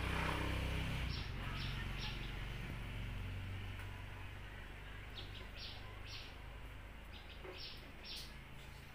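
Birds chirping: short, high chirps repeated in small groups, over a low steady rumble.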